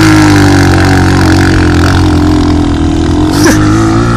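Off-road racing engine, an ATV or dirt bike, held at high revs under load climbing a hill, its pitch wavering slightly. A brief sharp sound with a falling pitch cuts in about three and a half seconds in.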